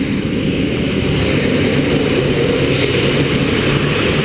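Motorcycle engine running under load, loud and steady, building slightly in the first second, with a steady rush of noise over it.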